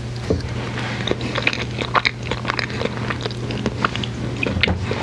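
Close-miked biting and chewing of a chocolate-covered candy: wet mouth sounds with many small irregular crisp clicks.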